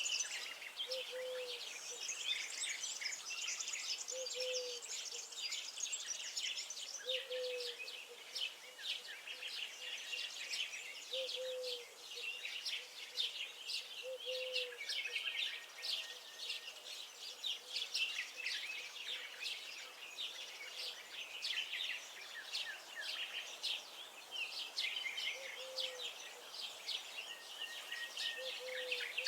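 A chorus of small songbirds chirping and twittering, many voices overlapping. A short low note repeats about every three seconds beneath it.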